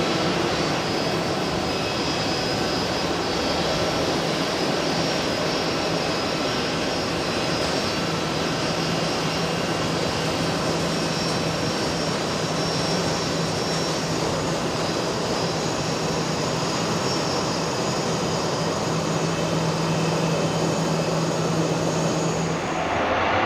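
Airbus C295M's two Pratt & Whitney PW127G turboprops and propellers at climb power after takeoff: a steady drone with a low propeller hum and several thin high whining tones, the hum cutting off just before the end.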